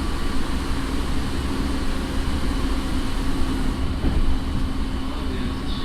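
Interior running noise of a JR 209 series electric train motor car, refitted with a Mitsubishi IGBT inverter and MT68 traction motors: a steady low rumble of wheels on rail with several steady tones from the traction equipment over it.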